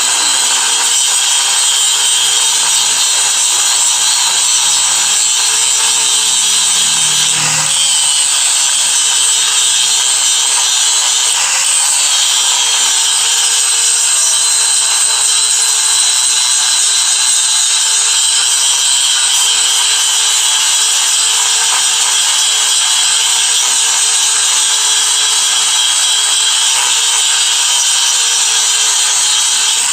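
A power tool running continuously while working material, with a steady tone whose pitch wavers slightly a few times as the load changes.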